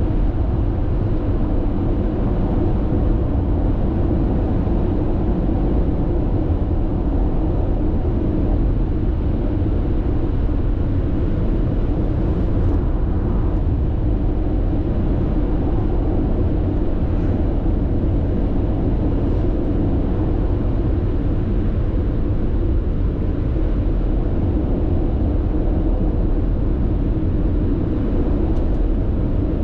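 Steady road noise from a car cruising at constant expressway speed, heard from inside the cabin: a low, even drone of tyres on the road surface with little change.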